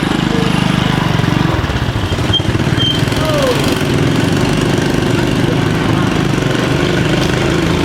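Small engine running steadily at an even speed, with a fast, regular firing pulse.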